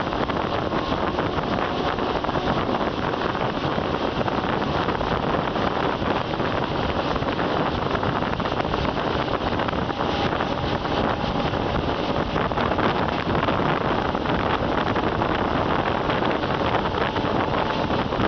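Steady rushing noise of a moving train, with wind buffeting the microphone.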